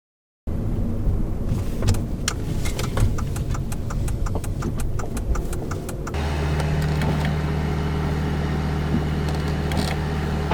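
Inside a car: a run of light, irregular clicks and rattles for a few seconds, then from about six seconds in the engine idling with a steady low hum.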